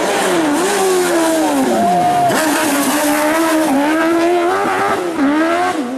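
Hill-climb race car engine revving hard, its pitch climbing and falling as it changes gear and comes off the throttle. The note drops sharply about two seconds in, then climbs again.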